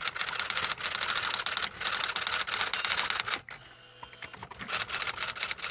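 Typewriter keys striking in rapid runs of clicks. Past the middle there is a pause of about a second with only a few faint strikes, then the typing picks up again.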